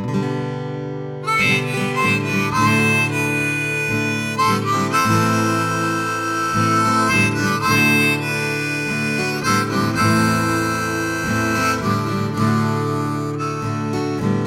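Instrumental song intro: a harmonica plays long held melody notes over strummed acoustic guitar chords.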